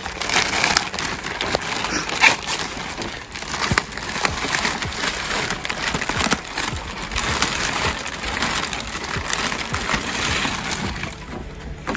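Plastic packaging and bags rustling and crinkling, with many small crackles and clicks, as kayak accessories are rummaged through and unpacked.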